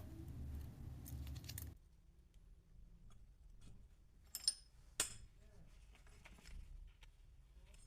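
A workshop machine's motor running with a steady hum, cutting off abruptly under two seconds in; then light metal clicks and two sharp, ringing metal clinks about half a second apart.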